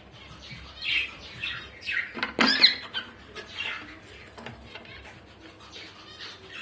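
Birds calling: a series of short chirps and squawks, some dropping in pitch, with the loudest, harsh call about two and a half seconds in.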